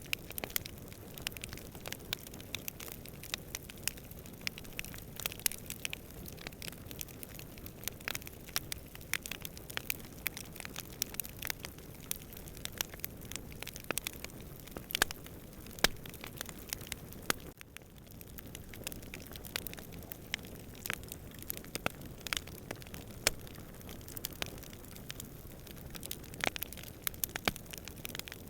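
Wood campfire crackling and popping in many sharp, irregular snaps, over a steady low rumble of distant wind.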